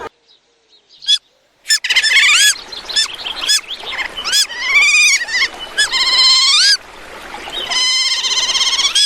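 Bird calls: after a near-silent first two seconds, a run of short arched notes that rise and fall, then a longer wavering note near the end.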